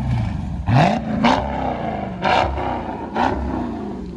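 A car engine revved in short blips, about four times, each a quick rise in pitch that falls away, over a low idle rumble.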